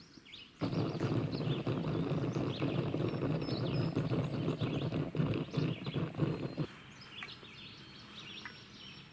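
Small birds chirping, over a low rushing, crackling noise that stops suddenly about seven seconds in.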